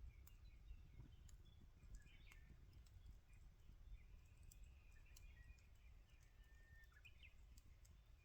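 Faint wood fire crackling with scattered small pops, under thin, faint bird calls and a low outdoor rumble.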